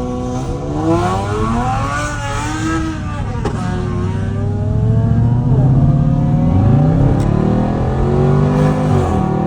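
Car engines revving, their pitch rising and falling several times with overlapping engines at different pitches, as cars pull off.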